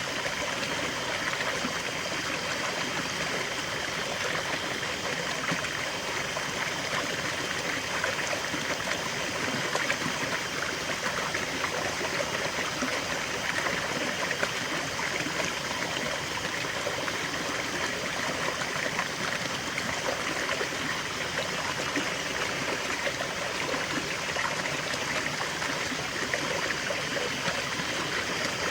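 River water flowing, a steady rushing with fine trickling and babbling.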